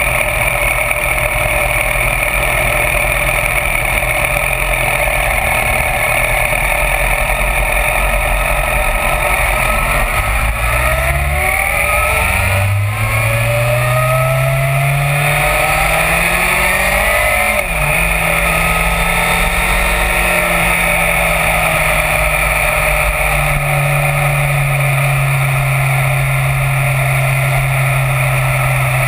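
Yamaha FZ1's inline-four engine idling, then pulling away a third of the way in. The revs climb in rising pulls broken by two gear changes a few seconds apart, then the engine holds a steady cruise and settles to a lower steady pitch near the end, with steady wind rush over the microphone.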